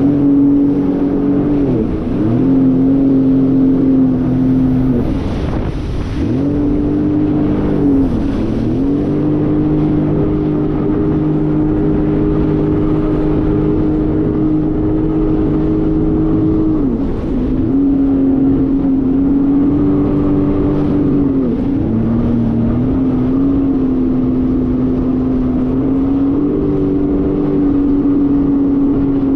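Jet ski engine running at speed across open water, a steady loud hum whose pitch dips briefly and climbs back about five times as the throttle is eased and reopened. Some wind on the microphone.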